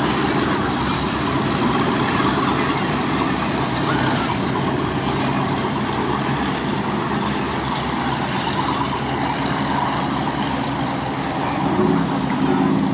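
A large engine running steadily, with a second steady low tone joining near the end.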